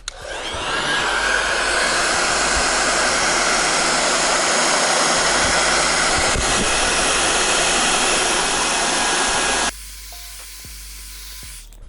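Electric hot-air blower (heat fan) running, a loud steady rushing hiss that builds up over the first second and stops abruptly near the end, blowing hot air to dry out a water-damaged electronic control module.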